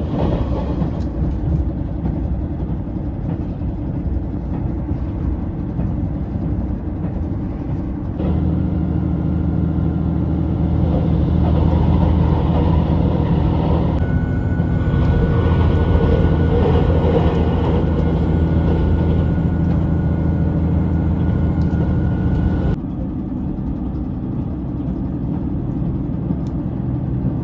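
Diesel limited-express train running at speed, about 95 km/h, heard from inside the passenger car: a steady rumble of engine and wheels on the rails. The rumble grows louder about a third of the way in. A faint, steady high tone joins it about halfway, and both the tone and the extra loudness cut off abruptly near the end.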